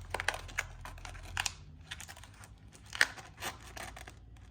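A sheet of 240-grit sandpaper being folded and fitted into a sander: paper crinkling and scraping with scattered small clicks, the sharpest about three seconds in.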